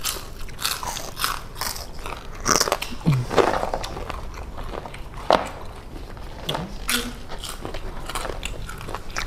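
Two people biting and chewing fried street snacks on skewers, heard close up as irregular crunchy bites and chewing.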